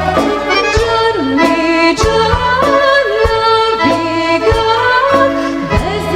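A woman singing a Serbian folk song with a wavering, ornamented voice over accordion-led band accompaniment with a regular low bass beat.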